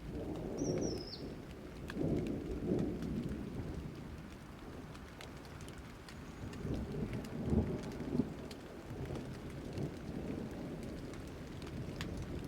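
Thunderstorm: thunder rumbling low in several slow swells over steady rain.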